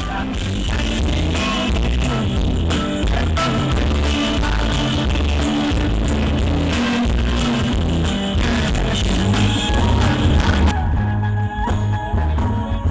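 Rock band playing live, with heavy bass, drums and electric guitar. About eleven seconds in the sound turns muffled as the treble drops away.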